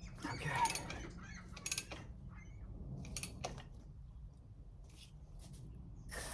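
Several faint, short clicks and scrapes at uneven intervals, from hand work on the copper pipe with the crimp shutoff tool.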